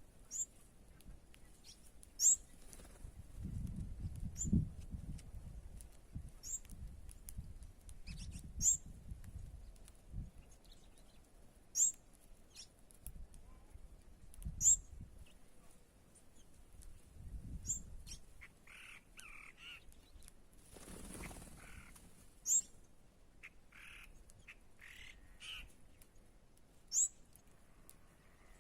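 Birds calling: a short, very high chirp comes every second or two, with clusters of lower, harsher calls around the middle and near the end. A low rumble runs through the first third.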